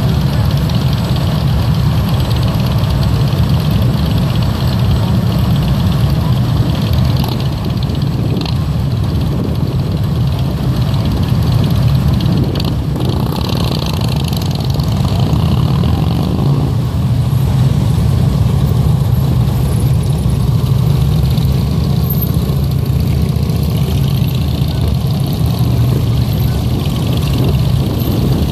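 Vehicle engines running steadily, a continuous low rumble with no clear revving or change.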